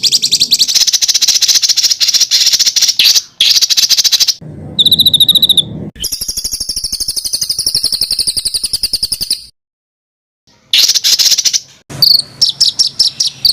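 Cage-songbird master recording of dense, harsh trills ('jrojos' and 'ngedur' song material): fast rattling runs of high notes in several spliced segments. A second of silence falls about ten seconds in, and separate sharp chirps come near the end.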